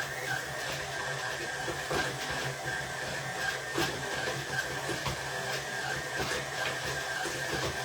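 Electric mixer motor running steadily, with a constant hum and whine and light irregular clicks.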